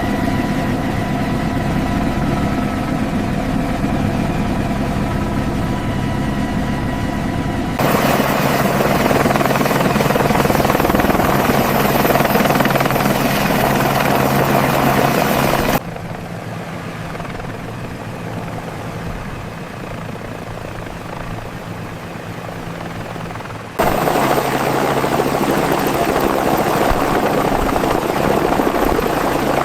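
Helicopter turbine engine and rotor running. The sound changes abruptly about every eight seconds: first a steady whine made of several pitched tones, then a louder rushing noise, then a quieter stretch, then loud again.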